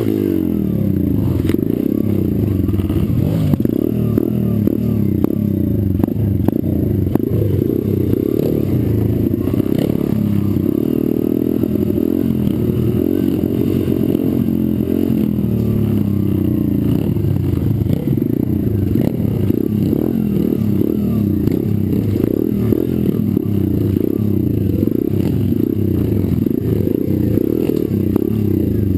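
Pit bike's small single-cylinder engine being ridden hard, its revs rising and falling again and again with throttle and gear changes.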